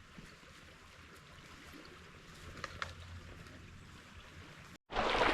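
Small stream running, faint at first with a few light ticks, then after an abrupt cut near the end, much louder, closer rushing water.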